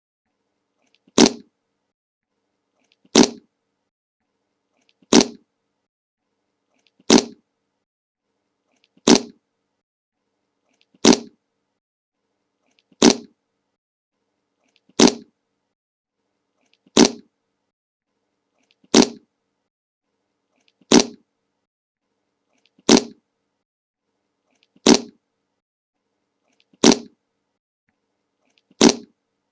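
The 'Le Monke' meme fart sound effect: the same short fart clip repeated about every two seconds, with dead silence between, about fifteen times.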